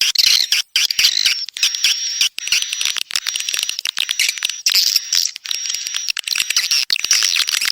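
Recorded swiftlet calls of the kind played as a lure for swiftlet nesting houses: fast, dense high-pitched twittering and chirping with rapid clicks, and a thin steady whistle running through parts of it.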